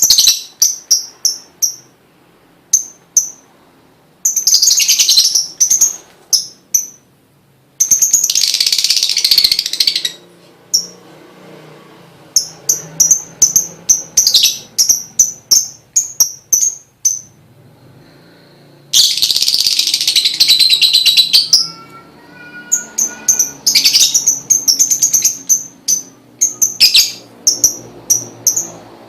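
Lovebird calling: a string of sharp, high chirps broken by three long, loud chattering bursts of two to three seconds each, one about four seconds in, one near eight seconds, one near nineteen seconds.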